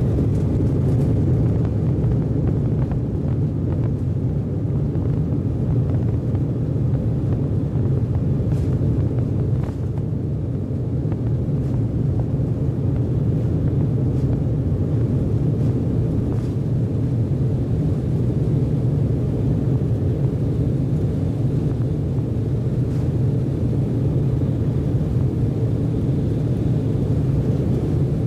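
Steady low rumble of an Embraer 190 jet airliner heard from inside the cabin: engine and airflow noise.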